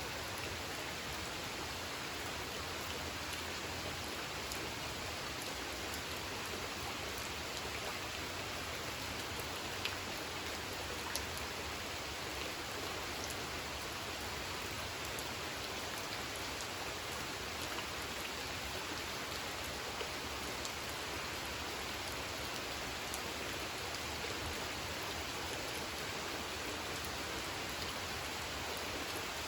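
Steady rain falling on a pond: an even hiss with scattered drop ticks, two of them sharper about a third of the way through.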